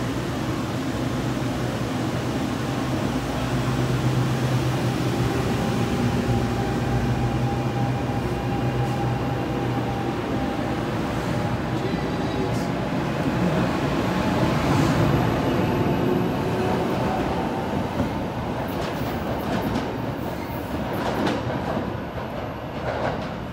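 NJ Transit electric commuter train pulling out of the station, its stainless-steel cars rolling past with a steady rumble and a low hum over the first half. Near the end comes a run of wheel clicks over the rail joints as the last car goes by.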